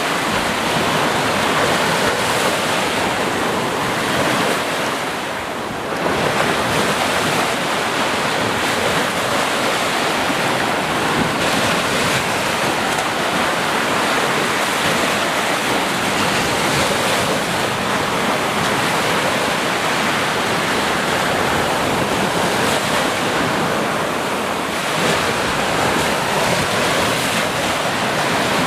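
Sea surf washing continuously on a shore, a dense steady rush of breaking waves that dips briefly about five seconds in.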